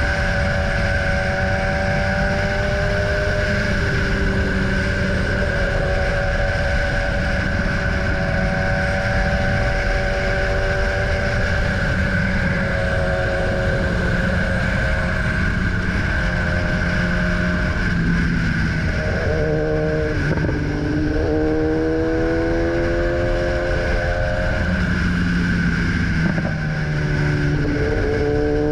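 BMW S1000R inline-four motorcycle engine running under way, with constant wind rush. The engine note holds steady at first, then rises and drops back several times in the second half as the throttle opens and gears change.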